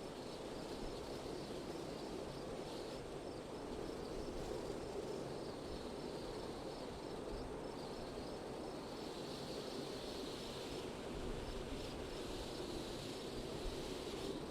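Steady wind with insects chirping in a regular rhythm; the high insect sound swells twice in the second half.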